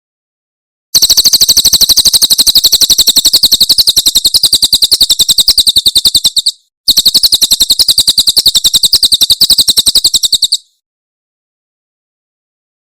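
Cililin songbird giving its rapid 'tembakan' song: a fast, machine-gun-like run of sharp, high chirps at about ten notes a second, in two loud bursts of about five and four seconds with a short break between them.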